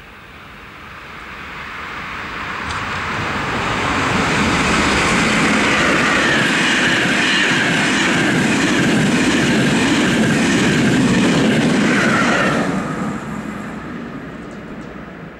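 Frecciabianca express train approaching and passing at speed: its rumble builds over the first few seconds, stays loud and steady as the coaches rush by, then falls away over the last few seconds as the tail clears.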